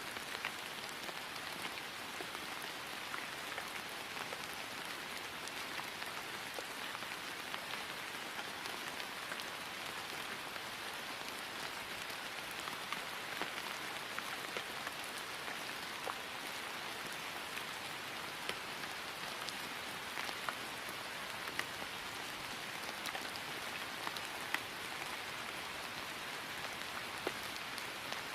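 Steady rain falling on grass, an even patter with scattered louder individual drop hits.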